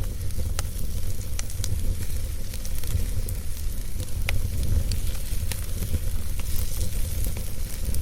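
Wood fire in a fireplace crackling: scattered sharp pops over a steady low rumble and hiss.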